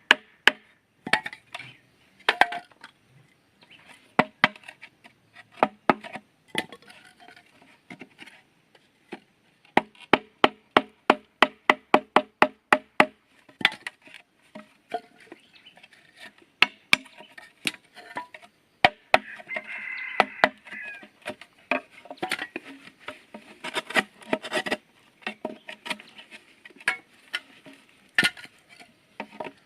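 Chopping on bamboo: repeated sharp knocks of a tool striking, in irregular runs, with a steady run of about three blows a second around the middle.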